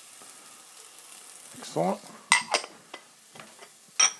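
Sliced bell pepper sizzling softly in oil in a hot pan, with a few sharp metallic clinks of a utensil against the pan in the second half.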